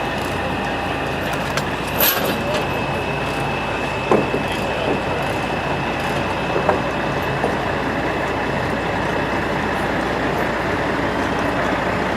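Steady engine rumble of heavy machinery during the loading of a steam tractor onto a lowboy trailer, with a short hiss about two seconds in and a few clanks after it.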